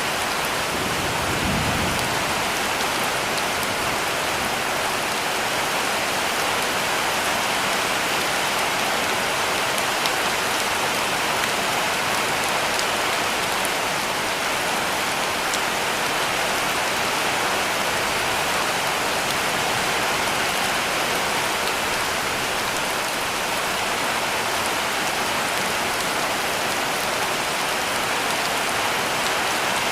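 Heavy rain falling steadily on a cabin roof: a dense, even patter and hiss that does not let up.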